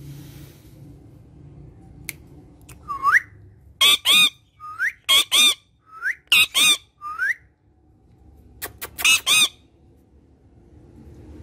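Green ringneck parakeet calling: four short rising whistles alternate with pairs of loud, harsh squawks, and another burst of squawks comes a few seconds later.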